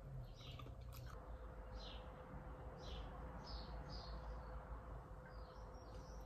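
Faint, short, high chirps of small birds, several scattered calls every second or so over low room noise, with a single sharp click about a second in, like a fork on a plate.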